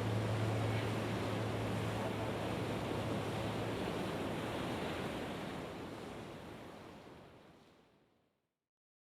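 Ocean surf washing steadily on a shore, with a low held music tone under it for the first few seconds. The surf fades out gradually and is gone about eight seconds in.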